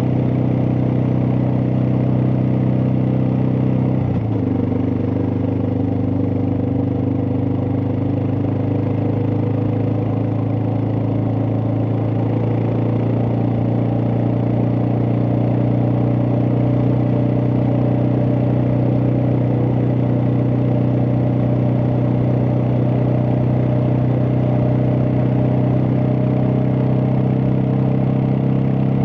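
Suzuki DR650's single-cylinder four-stroke engine running at a steady road speed, with a brief dip in engine speed about four seconds in.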